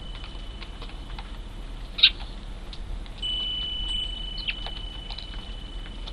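Eurasian tree sparrows, juveniles among them, chirping: short high chirps scattered through, with one loud sharp chirp about two seconds in. A thin steady high tone runs beneath them, stops briefly and comes back about three seconds in.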